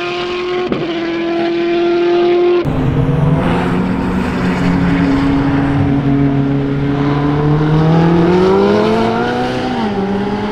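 Supercar engines running on a track. One car holds a steady note, then after an abrupt cut another engine runs lower and climbs in pitch as it accelerates, dropping back near the end.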